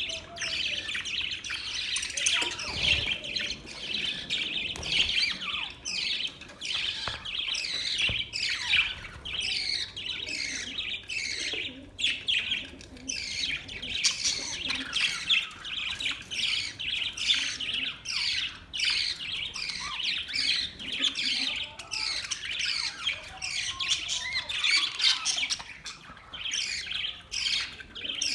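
A group of budgerigars chirping and chattering, with a dense, unbroken stream of quick warbled notes and occasional harsher squawks.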